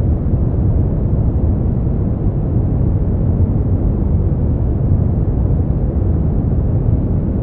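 Steady brown noise: a deep, even rumbling hiss weighted to the low end, with nothing above it.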